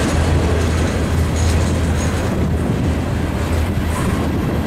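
Freight train of steel coil cars rolling past close by: a steady low rumble of wheels on the rails.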